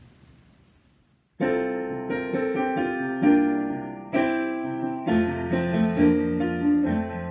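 Piano playing the introduction to a hymn. The chords and melody start suddenly about a second and a half in, after near silence.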